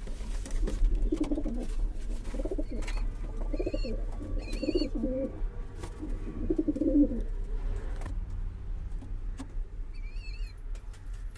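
Racing pigeons cooing in a loft: a run of low, wavering coos for the first seven seconds or so, with a few faint high chirps in the middle and near the end, over a steady low hum.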